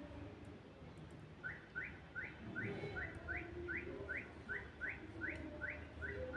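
A bird calling: a steady string of short rising chirps, about three a second, starting about a second and a half in.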